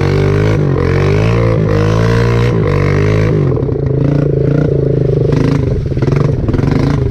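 Dirt bike engine revving up and falling back several times in quick succession. About three seconds in, it drops to a lower, steadier run.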